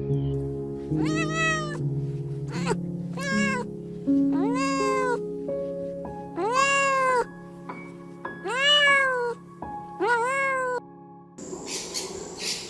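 A cat meowing six times in a row, each meow rising then falling in pitch, over soft background music. Near the end the meows stop and an even hiss takes over.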